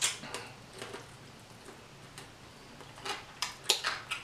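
A person chewing food close to the microphone, with short wet mouth clicks and smacks. The clicks come scattered at first and bunch together near the end.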